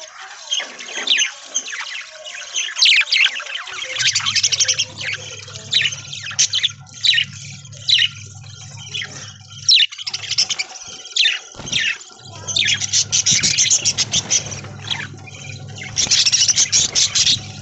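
A flock of budgerigars chattering with rapid, overlapping chirps, busiest near the end. A steady low hum comes in about four seconds in, drops out around ten seconds, and returns for most of the rest.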